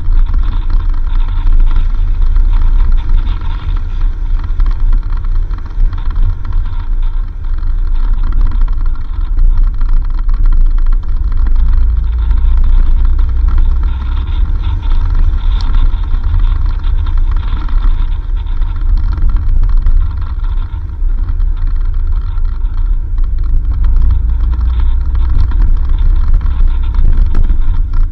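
4x4 vehicle driving along a dirt road: a steady, loud low rumble of engine and tyres.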